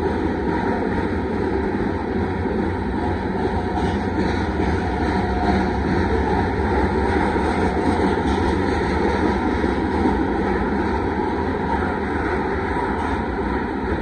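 Covered hopper cars of a freight train rolling past close by: a steady noise of steel wheels running on the rails.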